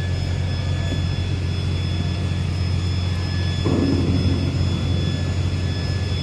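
Steady, loud low drone of a docked ro-ro ferry's heavy machinery, with thin high whining tones over it. About two-thirds of the way through, a brief sound rises over the drone for about half a second.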